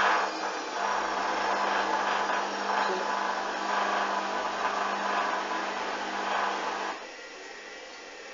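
Hoover washing machine's drum motor running with a steady hum as it turns the drum to balance an unbalanced load before the spin, stopping abruptly about seven seconds in.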